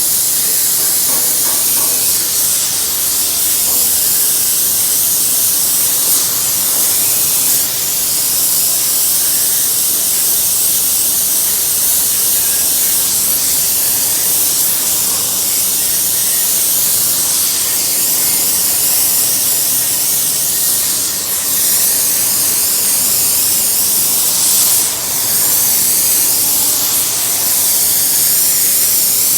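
Welding arc hissing steadily on the sheet metal of the truck's fuel cap as the filler hole is welded shut, with a few brief breaks in the arc.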